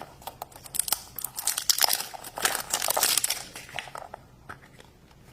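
Toy packaging being crinkled and torn open by hand: dense crackling for the first three seconds or so, then a few scattered crinkles.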